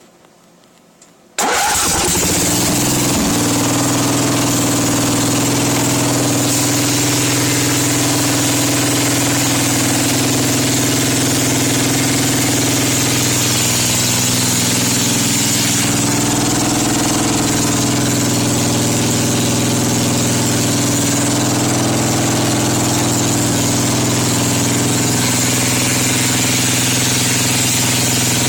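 Engine starting from cold, catching suddenly about a second and a half in, then running steadily.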